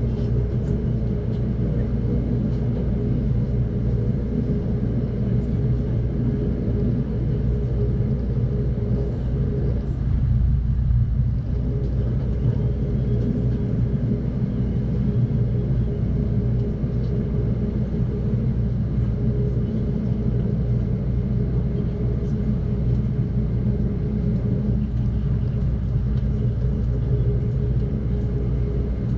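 Steady low rumble of the Amtrak Cascades passenger train running along the track, as heard inside the coach, with a faint steady hum over it.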